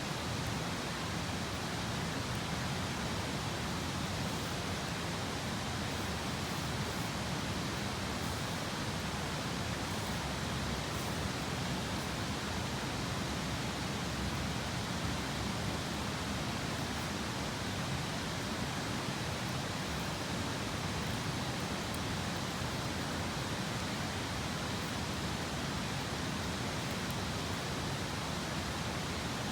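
Steady, even rush of flowing river water, with a few faint high crackles in the first half.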